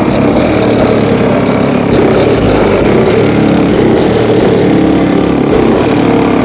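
Geo car's engine running steadily.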